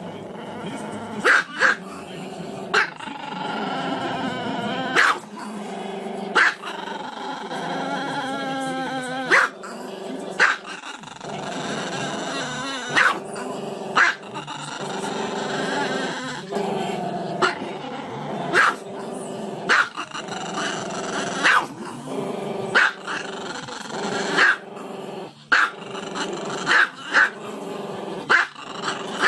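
A small long-haired Chihuahua howling with its muzzle raised, in long wavering notes that run on throughout. Short, sharp sounds break in about every second or so.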